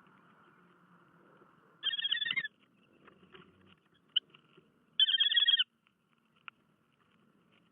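A bird calling twice: two short, rapid trills about three seconds apart, with a couple of faint sharp chirps in between.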